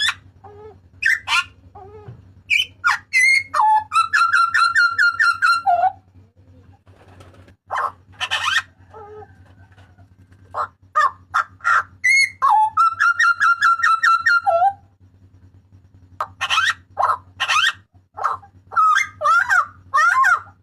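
Butcherbird calling loudly: sharp whistled notes and short phrases, with two long runs of rapid, evenly repeated notes, over a steady low hum.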